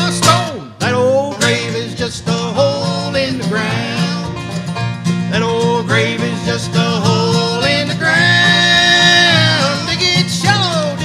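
Bluegrass band playing an instrumental break, with banjo and guitar over a steady bass line. A lead instrument slides between notes and holds one long note about eight seconds in.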